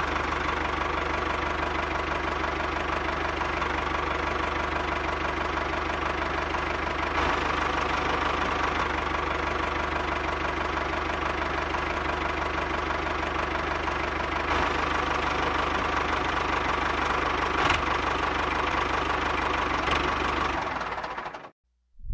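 An engine running steadily with a knocking beat. It starts abruptly and cuts off suddenly near the end.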